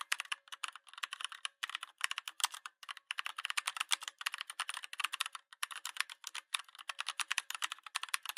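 Rapid typing on a keyboard: dense runs of quick clicks broken by short pauses.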